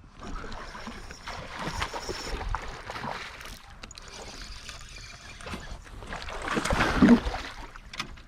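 Water splashing and sloshing against a kayak, mixed with knocks and rustling, while a hooked northern pike is fought and brought to the boat; loudest about seven seconds in.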